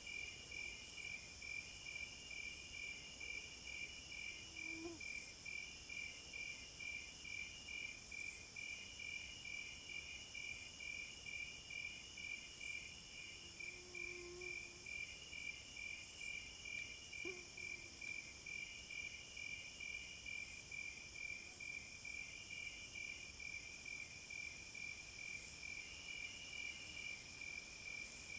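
Crickets chirping in a steady, fast-pulsing trill, with a second, much higher insect call repeating in regular bursts every second or two.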